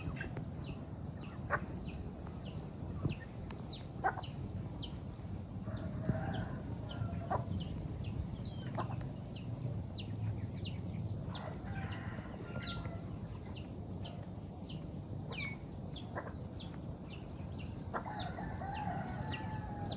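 Farm chickens clucking, with a few longer pitched calls among many short, high, falling chirps and the odd sharp tap.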